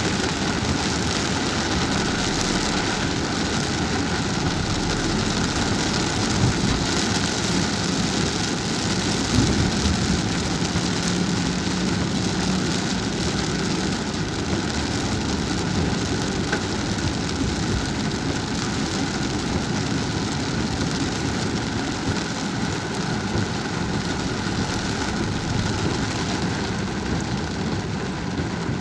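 Steady rain falling on a car during driving, mixed with the car's engine and road noise.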